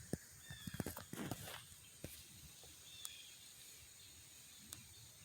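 Quiet outdoor background with a few soft knocks and clicks in the first two seconds and a couple of faint high chirps; the chainsaw is not running.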